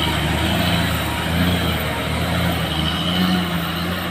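Heavy truck's diesel engine running steadily, a low drone.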